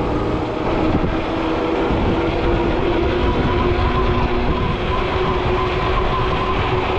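Wind buffeting the microphone on a moving Ecotric fat-tire e-bike, a steady low rumble, with a steady whine from the bike's electric hub motor running under power.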